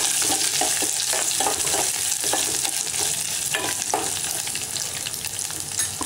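Garlic, dried red chillies and lentils sizzling in hot oil in a stainless steel pot for a South Indian tempering, with a spoon stirring and scraping against the pot. The scraping strokes stop about four seconds in while the sizzle goes on.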